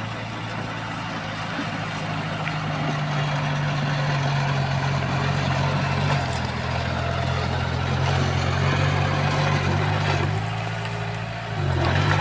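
Heavy construction machine's diesel engine running steadily, growing louder a few seconds in and dipping briefly near the end before picking up again.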